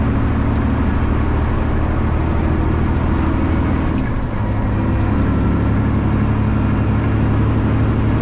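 Straight-piped Detroit Diesel 12.7 L Series 60 inline-six in a Freightliner truck, running steadily under way on the freeway. About halfway through there is a short dip in loudness and the engine's pitch changes.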